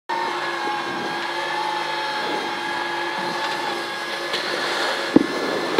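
Rally car engine idling, heard from inside the cockpit: a steady hum with a held whine over it, and a single knock about five seconds in.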